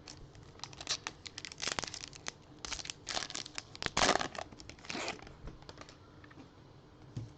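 A trading card pack's wrapper being torn open and crinkled, in a run of irregular rustling bursts that die away after about five seconds.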